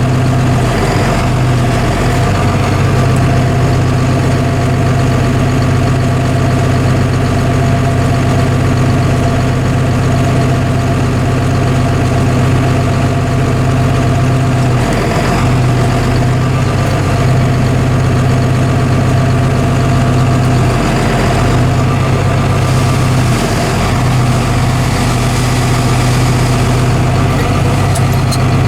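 Tractor engine running steadily under load, driving the PTO auger of an auger buggy (grain cart) that is unloading shelled corn. The engine note dips briefly a few times.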